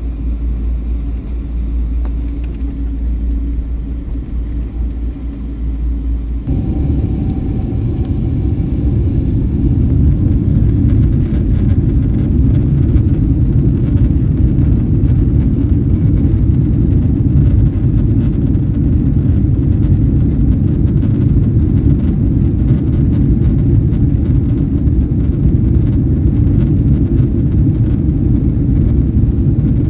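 Airliner jet engines heard from inside the cabin as a low, steady rumble. About six seconds in it turns abruptly louder and fuller, builds for a few seconds, then holds: the engines running up to take-off power.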